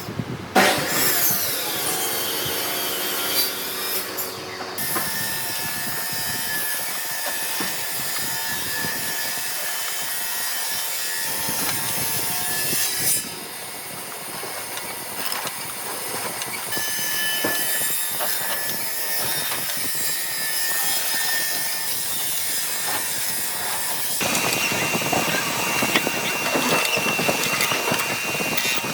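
A woodworking power tool working hardwood: a steady machine whine over a rough, continuous rasping noise. The sound shifts in pitch and strength a few times, dropping back briefly about halfway through.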